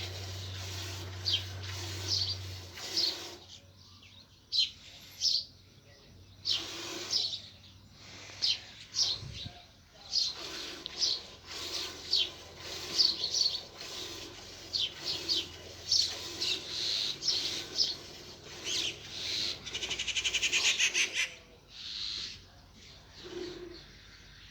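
Small birds chirping repeatedly in short, irregular calls, with a fast rattling trill about twenty seconds in.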